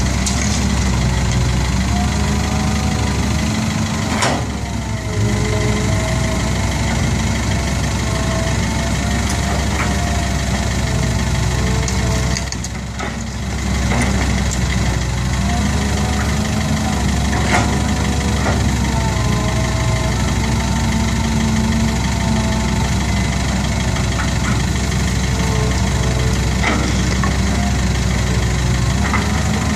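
Diesel engine of a six-wheel dump truck running steadily, with a few sharp clicks and two brief drops in level.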